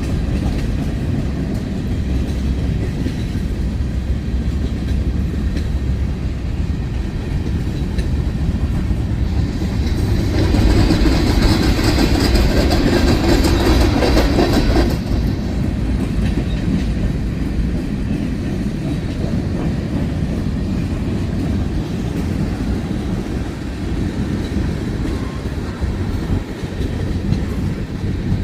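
Freight train cars rolling past, their steel wheels clicking over the rail joints in a steady rumble. About ten seconds in, the sound grows louder and harsher for around five seconds before settling back.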